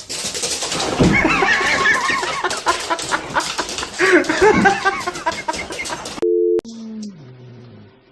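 Many birds calling over one another in quick, overlapping bursts, cut off about three-quarters of the way through by a short steady beep tone, after which faint low sliding tones follow.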